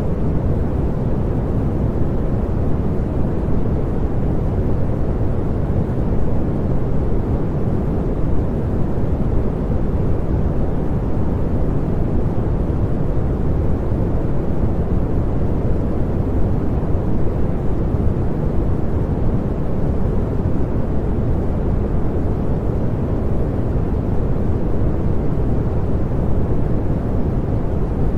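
Continuous pink noise: a steady, even rush weighted toward the low and middle range, with no changes.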